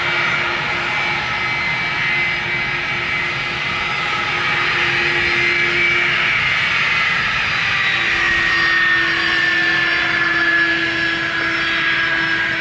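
Boeing 767-300ER airliner's jet engines running loud and steady, with a high whine that slowly falls in pitch over the last few seconds.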